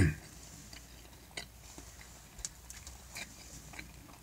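A person's mouth chewing food with lips closed: quiet, irregular clicks and smacks a second or so apart, after a brief louder mouth sound right at the start.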